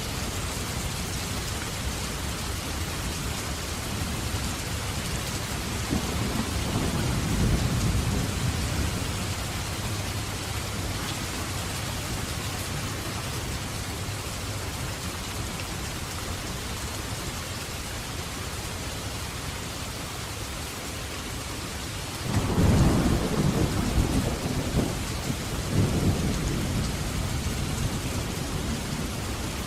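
Steady rain falling, with thunder: a low rumble swells and fades about a quarter of the way in, and a louder thunderclap breaks suddenly near the end and rolls on for several seconds.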